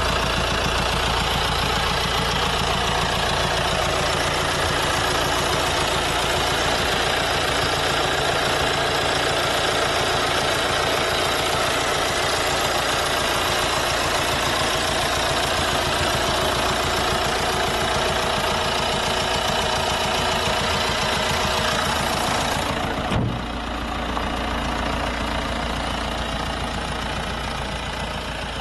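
Audi 2.0 TDI four-cylinder turbodiesel idling with a steady diesel clatter. About 23 seconds in there is a single thump, after which the sound is a little quieter and duller.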